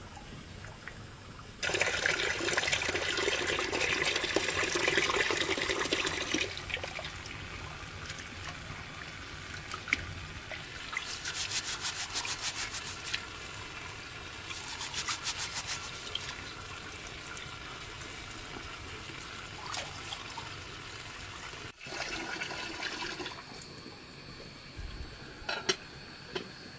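Water running or pouring for about five seconds, then two short bursts of rapid, even scraping strokes.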